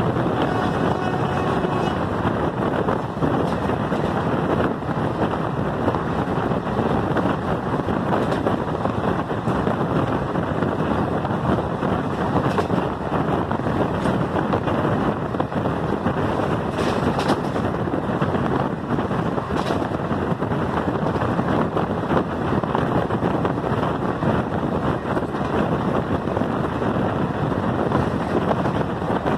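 Steady rush of a moving train, wind and running noise heard from on board, with wind buffeting the microphone. A faint steady tone with overtones dies away about two seconds in.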